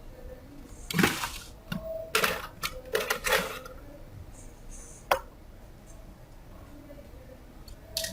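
Clicks and clatter of small hard laptop parts being handled: a cluster about a second in, a run of clattering from about two to three and a half seconds in, a single sharp click near five seconds and another near the end.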